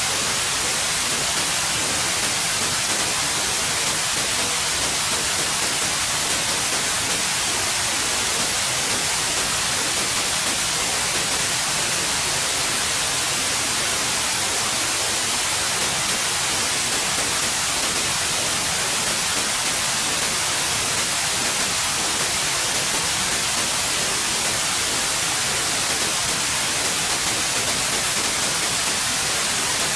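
Steady white noise: an even hiss, brightest in the treble, with no change or events.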